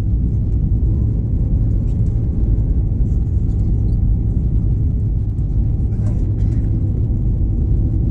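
Steady low rumble of an Airbus A321's cabin noise, the engines and airflow heard from inside the cabin, holding level without change.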